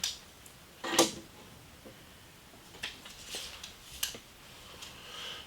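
A few sharp knocks and clatters of things being handled in a small room, the loudest about a second in, with quiet gaps between.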